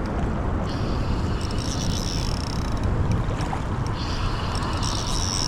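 Steady wind rumble on the microphone. Over it, a spinning fishing reel whirs in two stretches, about a second in and again near the end, as a hooked fish is reeled in.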